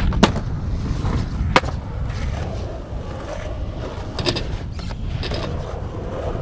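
Skateboard rolling on concrete, with sharp board clacks about a quarter second and a second and a half in and more knocking around four seconds. Strong wind buffets the microphone, adding a low rumble.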